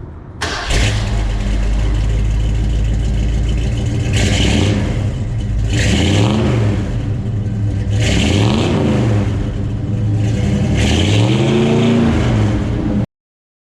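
A 1975 Ford Bronco's engine idles steadily through its exhaust and is revved three times, each rev rising and falling in pitch, the last one held longer. The sound cuts off suddenly near the end.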